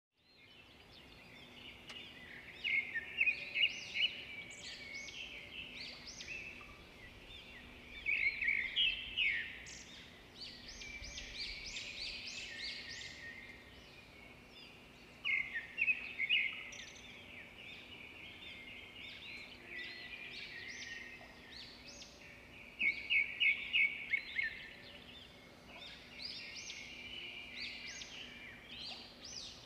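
Small birds chirping and singing, with bursts of loud rapid trills every several seconds, over a faint steady low hum.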